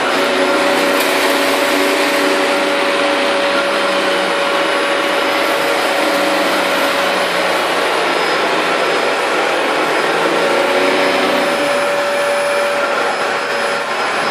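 Late-1990s Fantom Lightning dual-cyclonic canister vacuum running at full power with its brush bar turning, vacuuming up popcorn: a steady rush of air with a steady whine, which shifts slightly in pitch near the end.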